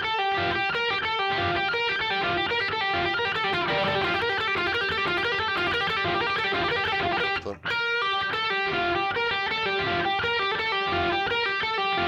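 Electric guitar playing a fast, repeating lead lick of quick picked notes and pull-offs on the B and G strings, with a brief break about seven and a half seconds in.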